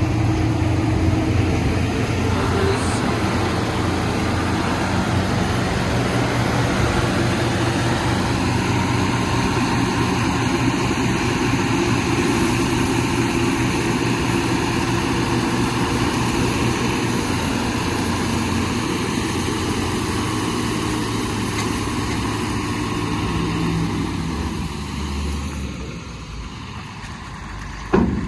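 A heavy diesel engine runs steadily, then dies away near the end. Just before the end comes one sharp knock.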